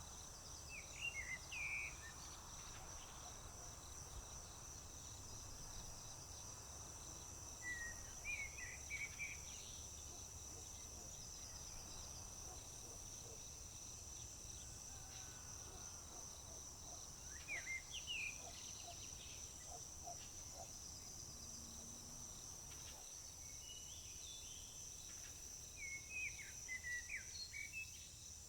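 Crickets or other insects trilling in a steady high-pitched drone, while a songbird sings short phrases four times, about every eight or nine seconds.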